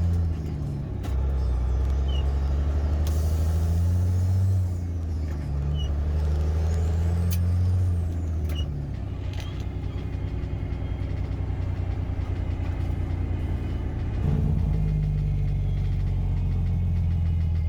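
Car-hauler truck engine running on the road, a low steady drone whose pitch and loudness drop and rise again several times.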